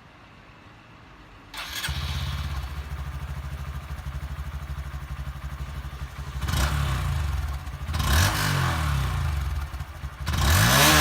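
Honda MSX 125's single-cylinder four-stroke engine, breathing through an aftermarket Akrapovic replica exhaust, starting about a second and a half in and settling into a steady, pulsing idle. It is then revved in short blips that rise and fall in pitch, three times, the last the loudest.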